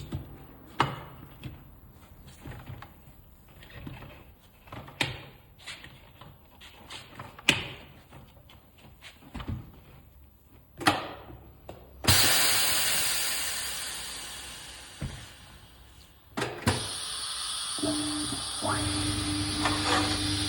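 Tyre-changing work: scattered metal clanks and knocks for the first twelve seconds, then a sudden loud hiss of escaping air that fades away over about four seconds. A second steady rush of noise follows, joined by a steady low hum near the end.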